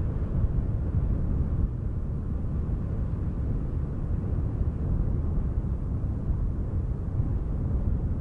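Wind blowing as a steady low rumble that rises and falls slightly in small gusts.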